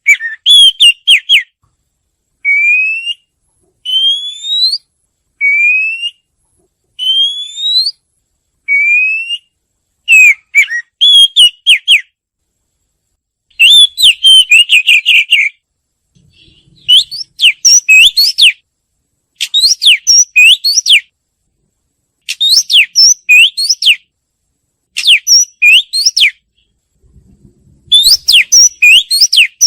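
Oriental magpie-robin singing: a run of short rising whistles spaced about a second and a half apart, then faster phrases of varied whistles and chirps.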